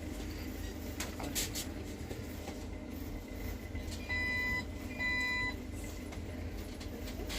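Two identical electronic beeps, each about half a second long and a second apart, over a steady low hum.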